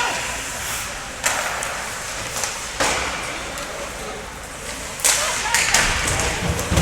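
Ice hockey play in a rink: three sharp hits with hissing, scraping tails, from sticks, puck and skates on the ice, over faint spectator chatter.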